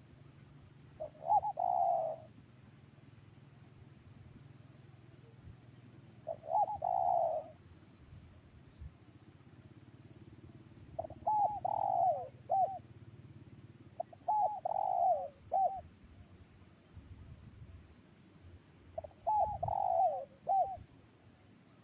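Spotted dove cooing: five short phrases of a few quick, looping notes, about one every four seconds. Faint high chirps from a small bird repeat steadily in the background.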